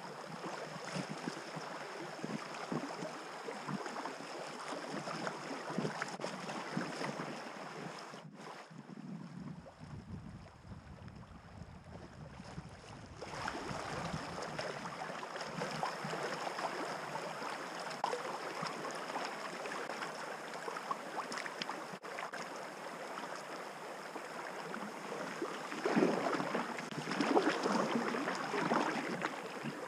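River water rushing and splashing around a packraft as it runs a shallow riffle, with louder splashing near the end.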